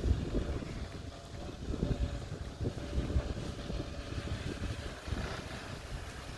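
Wind buffeting the microphone in uneven gusts, over the low rumble of a vehicle engine running.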